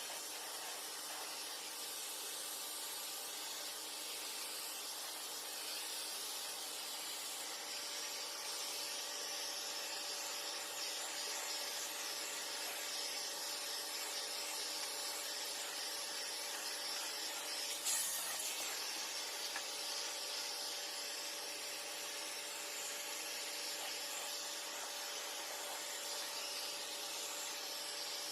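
Vacuum cleaner running steadily through a micro detailing kit's small attachment: an airy suction hiss with a steady hum under it. The hiss turns brighter about eight seconds in, and there is a single knock about two-thirds of the way through.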